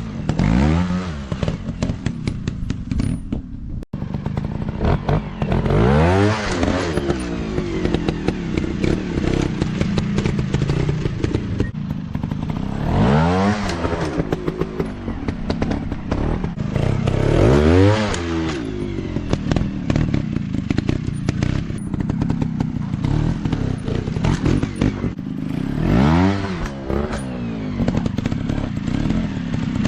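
Dirt bike engines running under load, revving up and dropping back again about five times, with clattering mechanical noise underneath.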